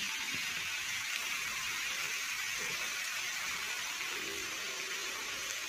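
Pieces of pirandai (adamant creeper) stem frying in hot oil in a pan: a steady, even sizzle.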